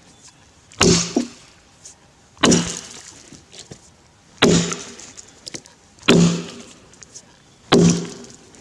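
Tasmanian-pattern axe chopping into a grey gum log while bucking it. Five heavy strikes land about every second and a half to two seconds, each a sharp thunk with a short low ring.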